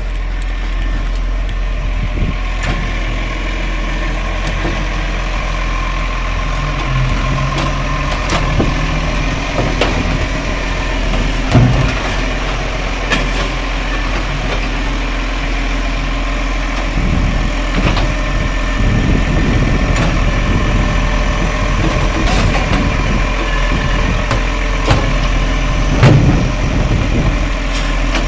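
Garbage truck engine running steadily, with scattered sharp knocks and clunks; the loudest come about twelve seconds in and near the end.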